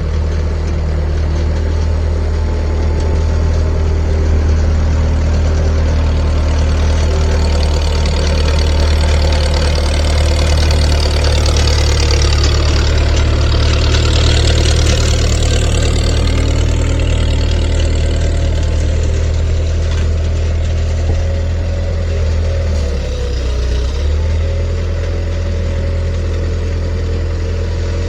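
Heavy vehicle engine running steadily with a low drone. A wash of noise swells and fades near the middle, and the engine note dips briefly about three-quarters of the way through.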